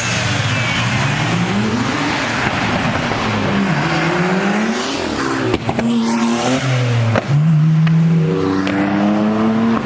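A car engine accelerating hard, its pitch climbing, dropping sharply at gear changes about four and about seven seconds in, then held high.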